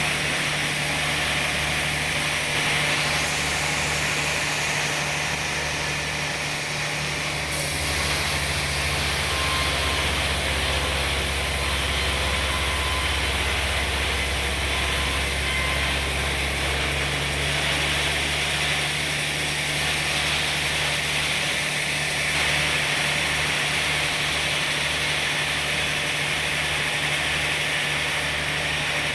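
Sawmill machinery running steadily: a low engine hum under a constant saw noise. The low hum grows heavier for several seconds midway.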